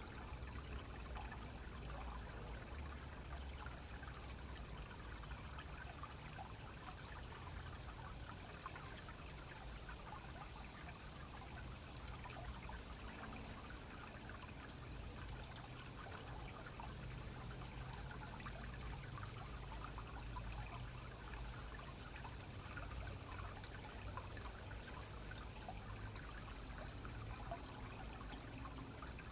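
Stream water running, a steady trickle.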